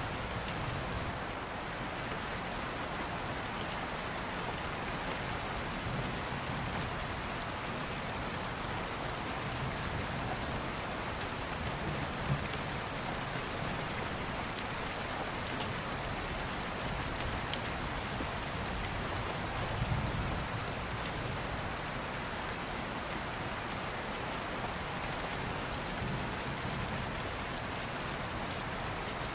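Steady, even rain, with a few sharp crackles and occasional soft low rumbles.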